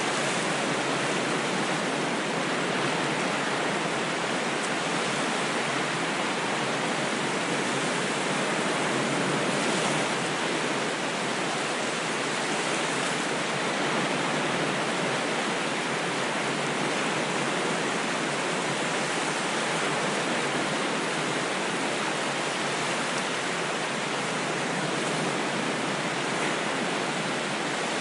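Ocean waves washing in a steady, even rush, with only slight slow swells and no single breaking wave standing out.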